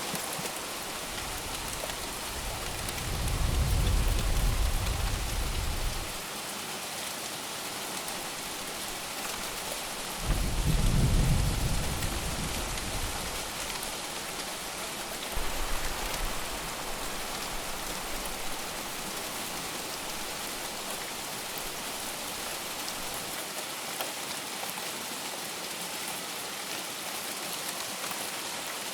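Steady heavy rain, a continuous even hiss of drops. Low rolls of thunder rumble under it twice, about 3 seconds in and about 10 seconds in, with a fainter roll near 15 seconds.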